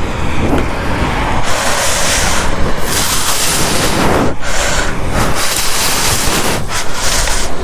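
Wind and road noise from riding a motorcycle, heard as a loud, steady rush on a bike-mounted camera's microphone that swells and dips a few times.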